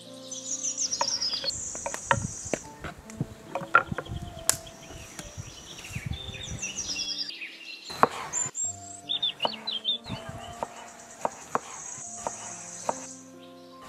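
A kitchen knife chopping through raw chicken and onion onto a wooden cutting board: irregular sharp knocks. Birds chirp in quick descending trills and insects buzz, over soft background music.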